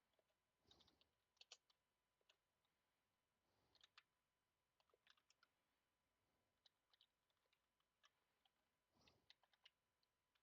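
Faint computer keyboard typing: irregular clusters of keystroke clicks with pauses between them.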